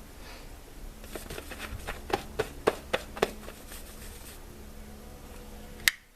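A quick, uneven run of about seven sharp knocks and clicks starting about a second in, then one more sharp click near the end, over a faint steady hum.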